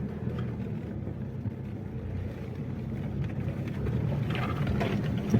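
Car driving slowly along a rough forest track: a steady low engine and road rumble.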